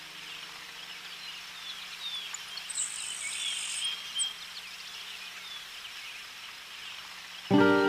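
Tits calling: many short, thin high chirps and call notes, with one longer, very high thin note about three seconds in. Music starts near the end.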